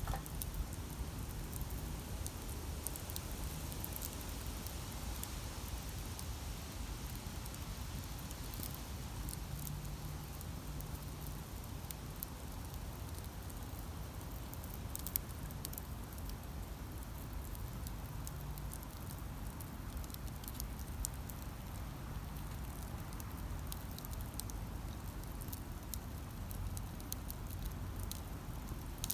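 Wood campfire crackling: scattered small pops and snaps over a steady low rumble, with one sharper pop about halfway through.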